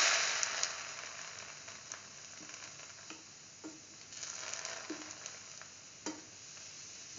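Lentil-filled bread sandwich frying in hot oil in a pan: a loud sizzle that starts sharply as it goes in and slowly fades, swelling again about four seconds in, with scattered pops and crackles.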